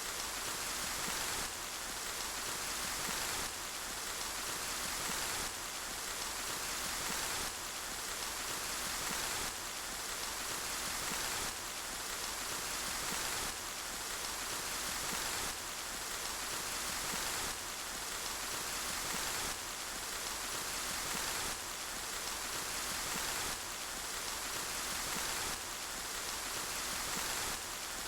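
Steady rain falling in an even, dense hiss. The level steps up and down about every two seconds in a regular repeating pattern, as in a short rain recording played on a loop.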